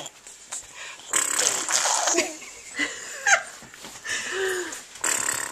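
A baby making assorted vocal noises: several short squeaky squeals and a low coo, mixed with breathy sounds.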